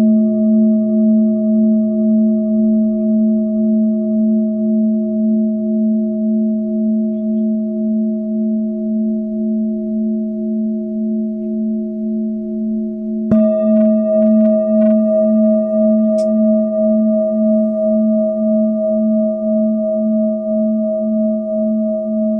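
Singing bowl ringing with a long, steady hum of several tones that gently pulses in loudness. About two-thirds of the way through, a bowl is struck again, renewing the ring with a bright onset and adding a higher tone.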